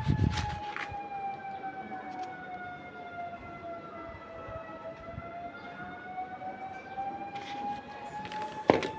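An electric power tool's motor whining steadily, its pitch sagging slowly through the middle and recovering. There are short knocks at the start and again near the end.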